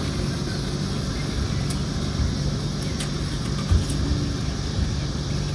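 A motor running steadily at idle: an even low hum with no change in pitch, and a couple of faint clicks.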